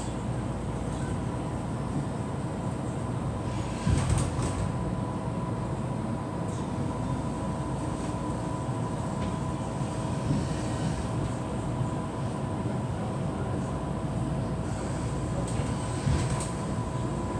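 Passenger train running, heard from inside the carriage: a steady rumble of wheels on track with a constant whine. There are two brief clunks, about four seconds in and again near the end.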